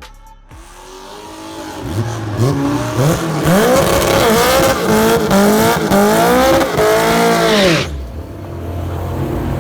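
A car engine accelerating hard, its pitch climbing and dropping back about five or six times over several seconds. It cuts off suddenly about eight seconds in, leaving a lower, steady engine running.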